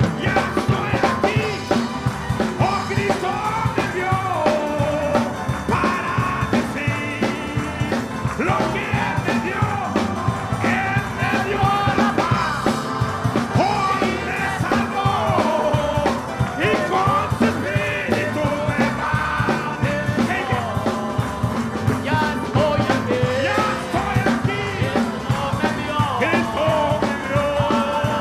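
Praise band playing an upbeat gospel song with a steady drum beat, with voices singing.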